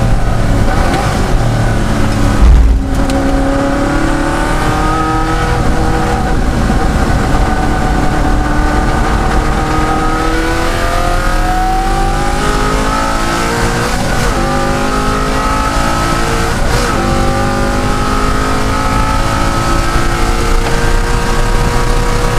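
De Tomaso Pantera's V8 engine at race speed, its note climbing in long rising sweeps as it pulls through the gears. There is a short loud thump about two and a half seconds in, and the pitch breaks and drops twice more, around the middle and again a few seconds later, before it climbs again.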